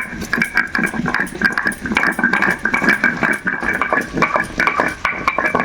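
Whole garam masala spices being ground, with a dense crunching and rattling that carries over a steady grinding tone.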